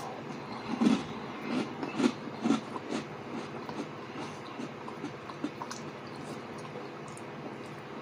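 Close-miked chewing of rye toast: about five loud crunchy, wet chews in the first three seconds, then quieter mouth clicks, over a steady low hum.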